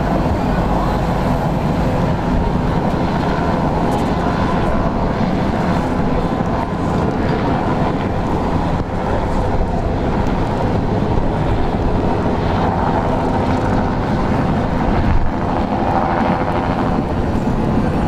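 A diesel train, the Union Pacific 4141 locomotive pulling the funeral train, passing with a steady, loud rumble.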